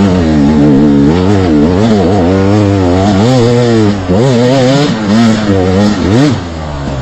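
Trail motorcycle engine running loud, its pitch rising and falling as the throttle is opened and closed again and again. Near the end it revs up once and then eases off.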